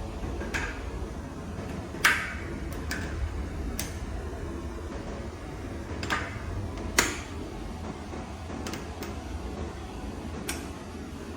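A steady low hum with sharp clicks and knocks scattered through it, about nine in all. Each rings briefly; the loudest falls about two seconds in, and another strong one about seven seconds in.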